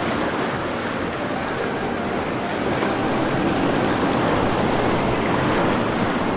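Sea surf on a beach: a steady, even rush of waves.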